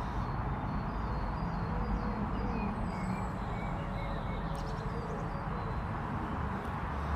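Steady outdoor background noise, a low even rumble, with a few faint high chirps about three seconds in.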